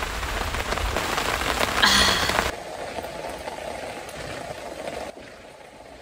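Steady rain falling as an even hiss, with a brief louder burst about two seconds in. Shortly after that the rain abruptly turns quieter and duller, and it drops again near the end.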